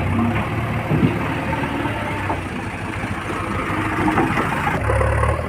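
Diesel engine of a backhoe loader running steadily, its low hum getting stronger about five seconds in as the engine takes more load or revs.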